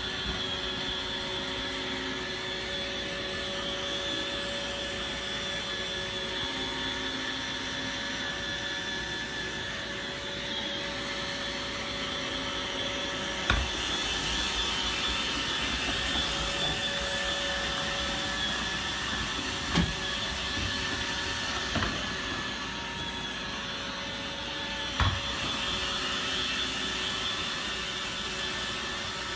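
AI vacuum cleaner running with a steady motor whir and hiss, broken by four short sharp knocks in the second half.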